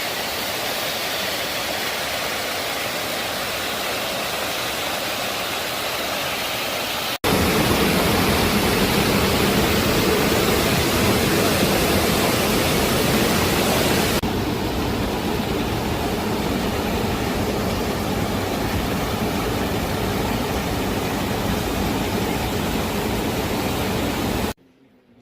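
Rushing water of a waterfall, a steady roar of white water. It jumps louder and fuller about seven seconds in, eases slightly about halfway through, and cuts off abruptly just before the end.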